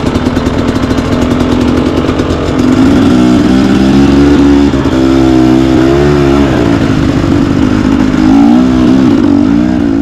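Motorcycle engine running, louder from about a quarter of the way in, its pitch rising and falling as the throttle is opened and closed.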